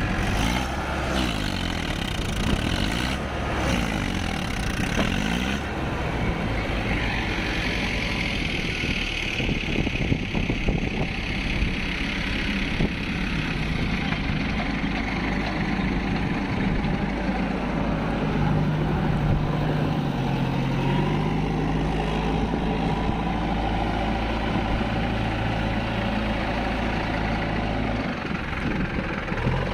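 Heavy vehicle's diesel engine running, its pitch rising and falling as the engine speed changes.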